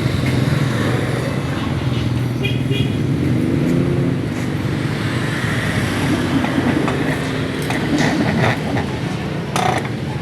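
An engine running steadily under outdoor traffic noise, with a few sharp knocks near the end.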